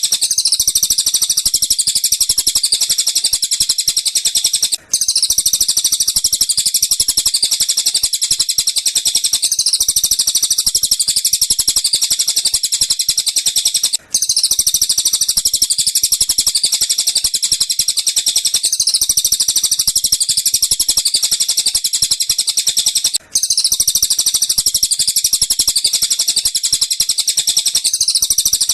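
Looped recording of tengkek buto kingfisher and cililin calls used as masteran, song-training audio for lovebirds. It is a dense stream of rapid, high-pitched chirping and trilling. It breaks off for an instant about every nine seconds, where the loop restarts.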